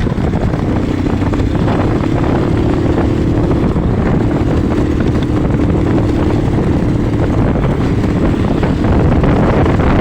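Motoland Alpha motorcycle engine running steadily, with a held pitch and a low rumble, getting a little louder near the end.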